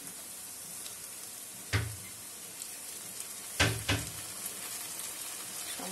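Chopped onion and garlic sizzling steadily in hot mustard oil in a steel kadai as spice paste and powder are added. Sharp metal clinks against the pan come once a little under two seconds in and twice in quick succession past the three-and-a-half-second mark.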